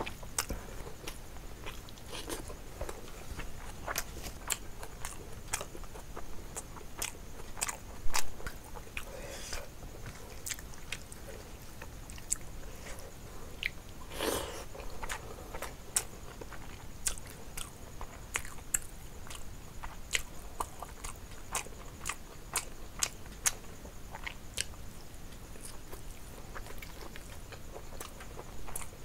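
Close-miked chewing of a mouthful of rice and curry eaten by hand, with frequent short wet smacks and clicks of the mouth. There is a louder click about eight seconds in and a longer, fuller burst of sound a few seconds past halfway.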